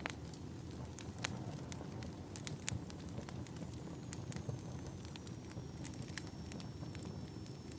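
Wood fire burning in a fireplace: irregular sharp crackles and pops over a low, steady rumble of flames.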